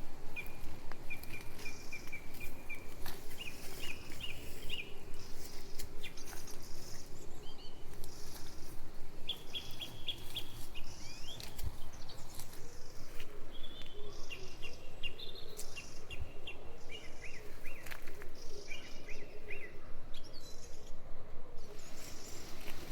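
Small songbirds chirping in short runs of quick repeated notes, on and off, over a steady, fast-pulsing low background noise.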